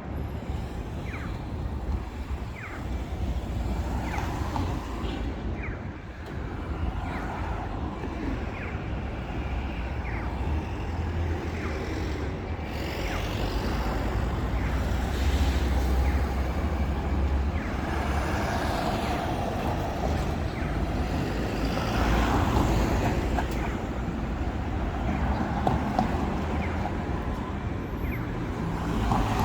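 City road traffic: a steady low rumble of engines and tyres as vehicles pass, with heavier vehicles swelling louder a little past the middle and again later.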